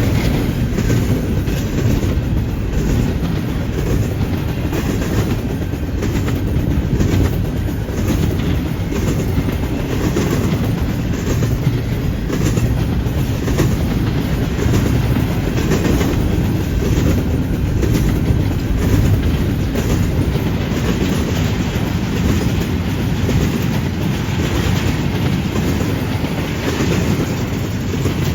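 Freight train cars rolling steadily past, with a continuous low rumble and repeated clickety-clack of wheels over rail joints and the junction switch.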